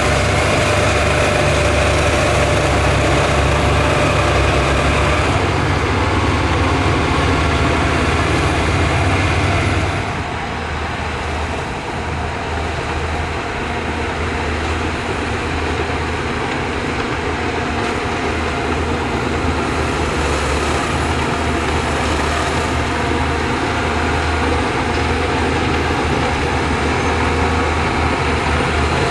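Heavy diesel engine of earth-moving machinery running steadily under work. About ten seconds in it drops slightly in level and its note changes.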